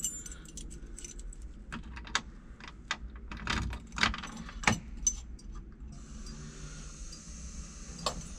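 Car keys jangling and clicking as the ignition key is handled and fitted into the ignition switch. About six seconds in, a steady faint hiss starts: the car radio coming on with the ignition.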